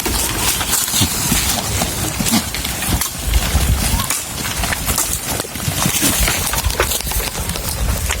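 Goats feeding close by: scattered clicks and rustling, with a strong uneven low rumble on the microphone.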